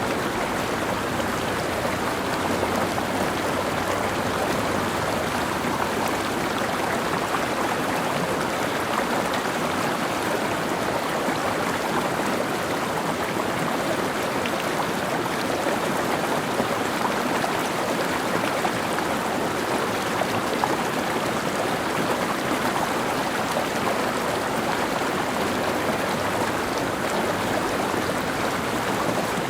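Mountain stream flowing over rocks: a steady, even rush of running water with no change.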